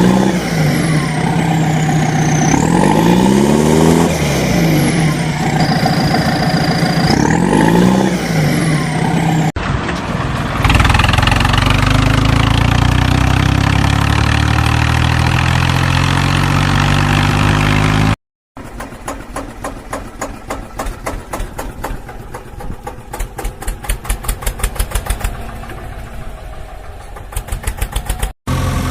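Engine sounds in three cut-together parts: first a steady engine with wailing, sweeping electronic tones over it; then an engine running steadily and slowly rising in pitch; then a quieter chugging rhythm that speeds up in spurts.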